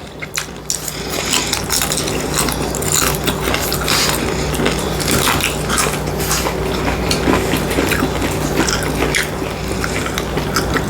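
Close-miked chewing and biting of food, a dense run of quick, crisp mouth clicks and smacks, with a faint steady hum underneath.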